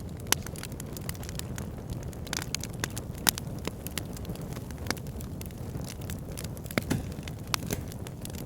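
Wood fire burning in a backyard fire pit, a steady low rumble of flames with irregular sharp crackles and pops, a few of them louder.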